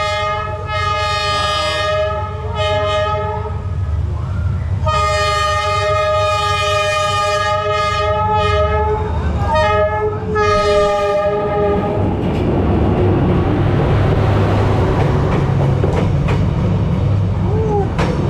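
Train horn sounding a series of multi-note blasts, about six in all, one held for nearly four seconds. After about twelve seconds it gives way to a loud, building rumble of the train running along the rails.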